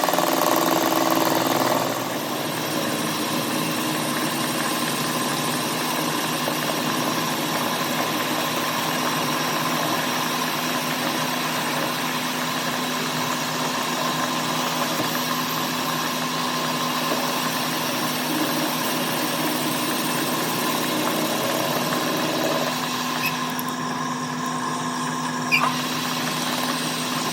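Petter engine running steadily with a constant hum, a little louder for the first couple of seconds. A single sharp click comes near the end.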